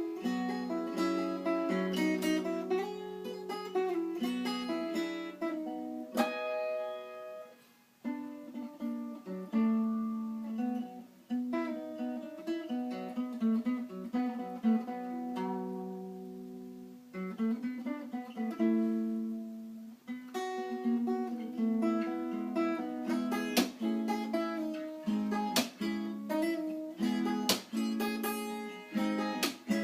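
Acoustic guitar playing an instrumental passage, plucked and strummed notes with no singing. It thins out briefly about eight seconds in and again for a few seconds past the middle.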